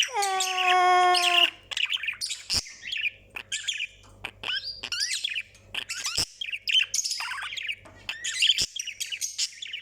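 Male budgie warbling and chattering in quick, varied chirps, the show-off song a male budgie uses to impress. It opens with a held, voice-like note that falls at first and then stays level for about a second and a half, and a few sharp clicks come through the chatter.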